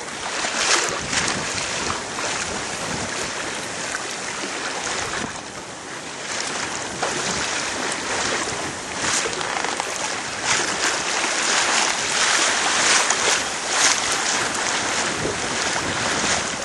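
Wind buffeting the microphone and water rushing along the hull of a small yacht under sail: a steady rushing noise that swells and dips in gusts.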